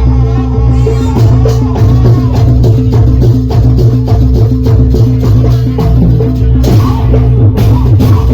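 Javanese jaranan ensemble music: drums and percussion struck in a fast, even rhythm over held low tones, with a wavering melody line in the first few seconds.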